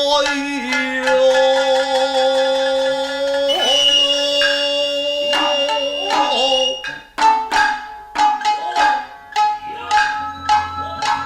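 Nagauta music: a long sung note held over shamisen, with a high held tone in the middle. In the second half it changes to sharp, spaced hand-drum strikes from the hayashi ensemble.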